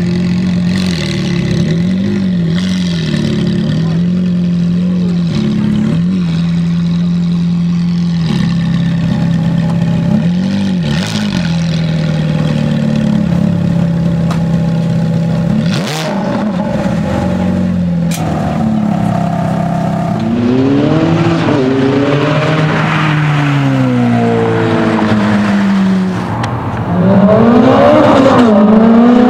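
Ferrari F430 Spider's 4.3-litre V8 through a Capristo exhaust, idling with repeated short throttle blips. In the second half it gives a run of bigger revs rising and falling, loudest near the end.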